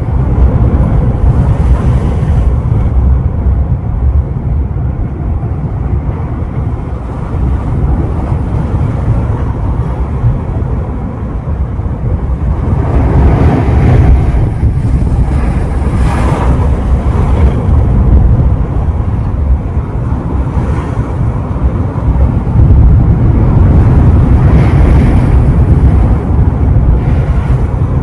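Sea surf breaking and washing ashore, with wind buffeting the microphone as a heavy low rumble. The surf swells louder about halfway through and again near the end.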